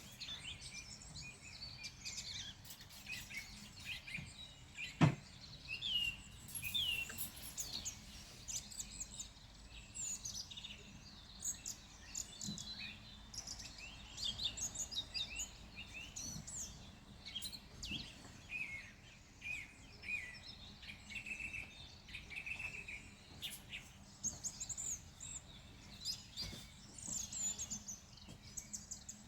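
Several songbirds chirping and singing in overlapping short calls and trills, over a faint steady background, with a single sharp click about five seconds in.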